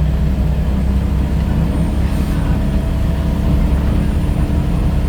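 Scania L94UB single-decker bus diesel engine running with a steady low drone, and a faint whine coming in about halfway through.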